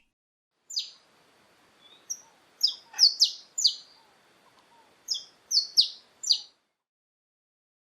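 Saffron finch singing: a string of short, sharp chirps, each sweeping down in pitch, in two bursts with a pause of about a second between them.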